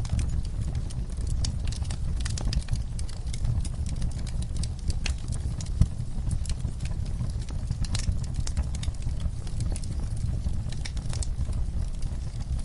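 Campfire burning with a steady low rumble and frequent crackles and pops from the wood, one louder pop about halfway through.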